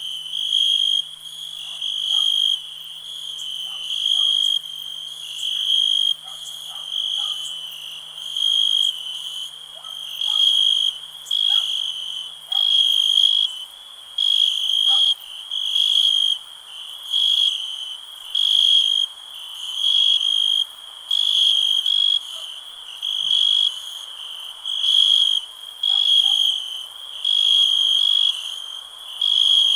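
Crickets chirping: a high, shrill trill that comes in short bouts about once a second, over a faint chorus of other insects.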